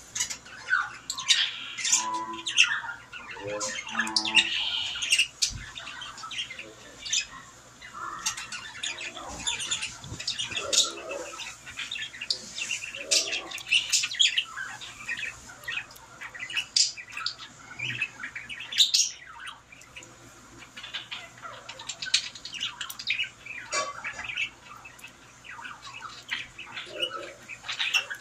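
Birds chirping and squawking in many short, sharp, irregular calls, some sliding up and down in pitch.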